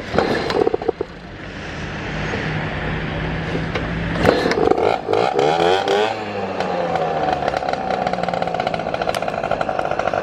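A motor vehicle's engine revving up as it pulls away. It then runs steadily with a fast pulsing note.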